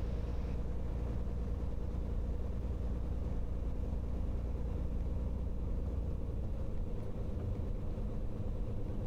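Cirrus SR22T's turbocharged six-cylinder engine and propeller running at low taxi power: a steady low drone heard from inside the cabin, its lowest part shifting slightly about six and a half seconds in.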